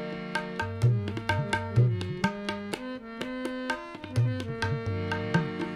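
Instrumental interlude of Sikh kirtan: tabla playing a rapid pattern of sharp strokes with bending bass tones, under a harmonium holding and changing sustained notes.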